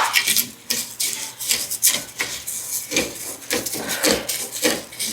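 A spoon stirring and scraping dry rice as it browns in a pot, an irregular run of scrapes with the grains shifting against the pot.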